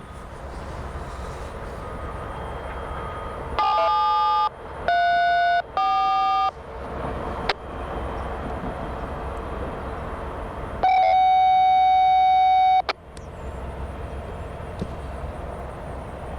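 Touch-tone (DTMF) signalling over a railroad two-way radio: three short dual-pitch beeps in quick succession about four seconds in, then one longer steady tone near the middle. A low steady rumble of idling locomotives runs underneath.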